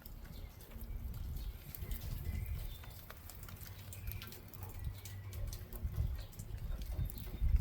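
Wind rumbling on the microphone, with scattered drops of rain pattering and birds calling faintly.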